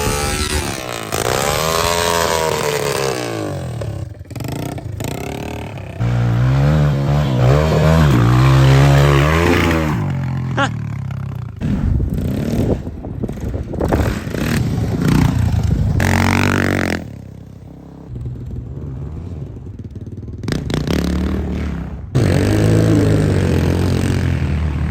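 Pit bike engines revving up and down as the bikes are ridden and jumped, in several short cut-together passages with sudden changes in level, quieter for a few seconds before the last loud run.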